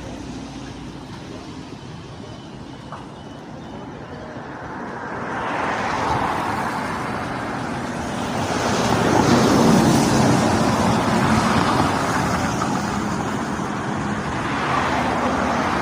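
Road traffic passing: the rush of vehicles builds up about five seconds in, is loudest around ten seconds, fades a little, then rises again near the end.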